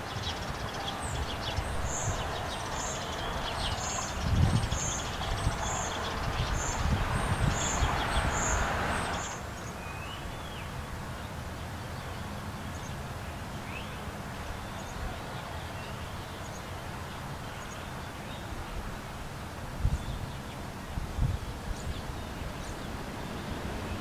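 Wild songbirds calling. There is a series of about ten short, very high notes, evenly spaced about half a second apart, during the first nine seconds, then only a few faint chirps. A steady hiss and low rumble lie underneath; the hiss drops away suddenly about nine seconds in.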